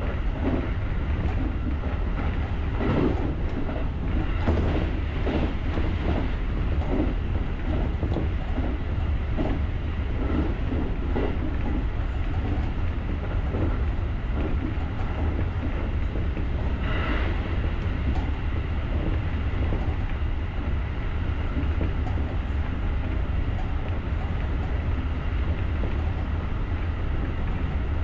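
JR rapid electric commuter train running along the line, heard from the driver's cab: a steady low rumble, with the wheels clicking over rail joints at a regular pace for the first part, then smoother running with a short higher-pitched squeak about halfway through.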